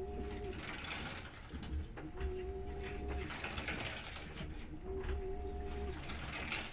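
Washing machine in its wash cycle: the motor hums for about a second on each turn of the drum, with water sloshing in between, repeating evenly about every two and a half seconds, three times here.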